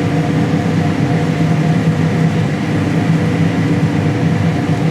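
John Deere combine running steadily during soybean harvest: a constant, loud low drone of engine and machinery with a few steady hum tones over it.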